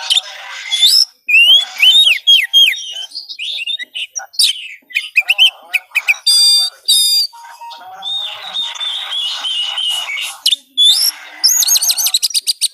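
Oriental magpie-robin (kacer) singing a loud, varied song of clear whistles, quick rising and falling notes and rapid repeated trills, with a long buzzy chattering phrase a little past the middle. It is a lure song used to stir a quiet kacer into singing back.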